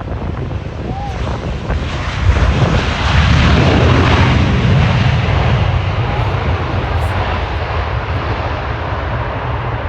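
Jet airliner's engines passing low overhead on landing approach: the roar swells loudly a little over two seconds in, peaks, then slowly fades away.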